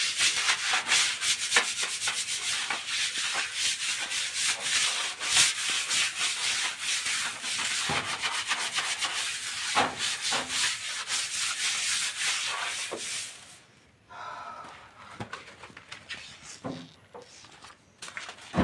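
Bristles scrubbing a tiled floor in rapid back-and-forth strokes, working at leftover cement residue. The scrubbing stops about 13.5 s in, leaving a few faint knocks.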